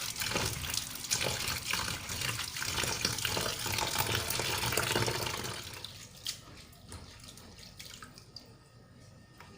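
Tap water running into a sink, shut off a little past halfway, followed by a few light clicks and drips.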